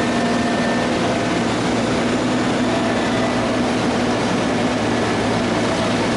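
Heavy diesel construction machinery, such as an excavator, running steadily with a constant engine drone.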